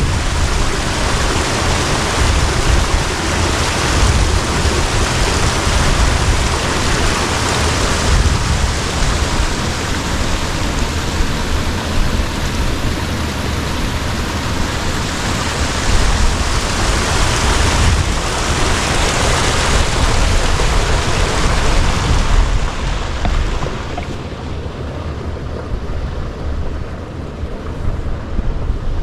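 Strong wind gusting and buffeting the microphone, with a steady rush of wind-driven rain; it eases somewhat near the end.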